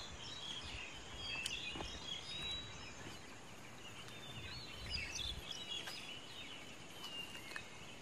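Several small birds chirping and whistling, many short high calls overlapping. A brief low rumble comes about five seconds in.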